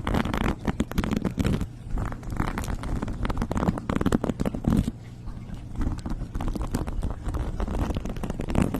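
Close-miked ASMR trigger sounds: dense, rapid tapping, scratching and crackling right on the microphone, over a steady low hum.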